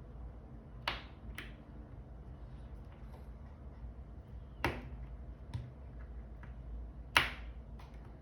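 Sharp, separate clicks and taps of small hard parts being handled while a G-Shock watch band is worked on, about six in all, the loudest about seven seconds in, over a steady low hum.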